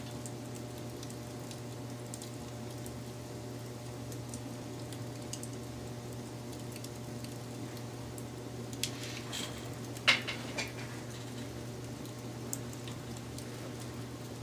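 Wood fire burning with a steady low rumble and scattered soft crackles, and a short burst of sharper crackling and popping about nine to ten and a half seconds in, the loudest pop about ten seconds in.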